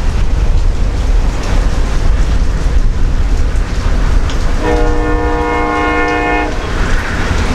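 Train passing close by with a heavy, steady rumble, and the locomotive's air horn sounding one chord for about two seconds near the end.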